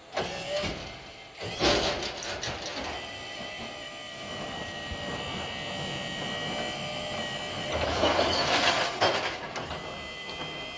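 Recycling truck working a pickup: bursts of rattling clatter in the first three seconds and again about eight seconds in, over the truck's steady mechanical running with a thin high whine.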